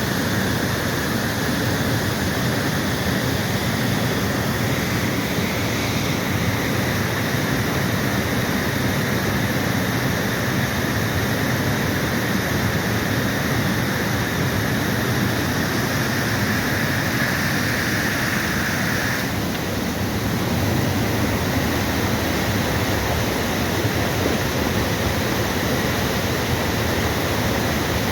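Heavy rain pouring down, a steady dense rush of noise; its tone changes slightly about nineteen seconds in.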